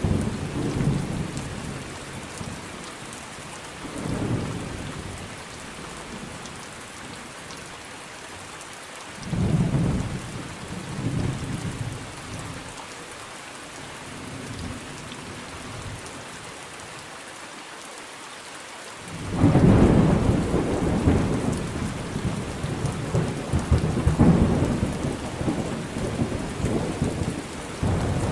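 Steady rain falling, with rolling thunder. Low rumbles swell and fade at the start, a few seconds in and about a third of the way through. A longer, louder peal rolls in about two-thirds of the way through and goes on to the end.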